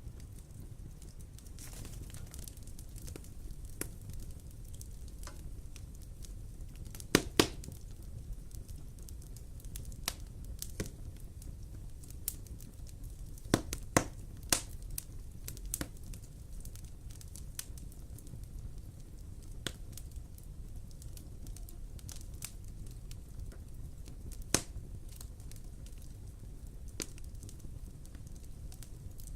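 Wood fire burning in a fireplace: a steady low rumble of flames with irregular sharp crackles and pops, the loudest a quick double pop about seven seconds in and another strong one near 25 seconds.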